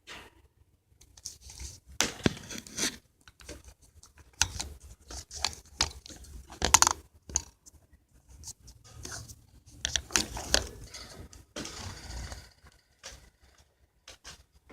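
Pet birds rustling, pecking and scratching about their cage and toy: irregular scratchy clicks, crackles and crunches in clusters, loudest about seven seconds in.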